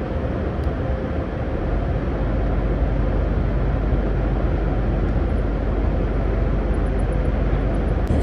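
Scania lorry on the move: a steady low rumble of engine and road noise.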